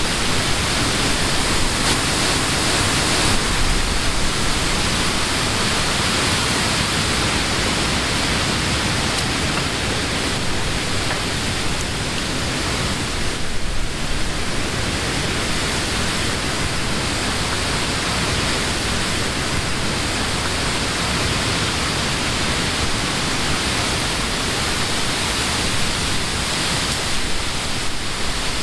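Summer wind blowing through leafy trees: a steady rushing of leaves that eases slightly for a moment about halfway through.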